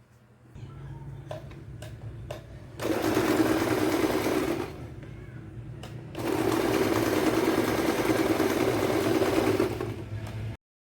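Electric sewing machine stitching in two runs, the first about two seconds long and the second about three and a half, after a few light clicks while the motor hums. The sound cuts off suddenly just before the end.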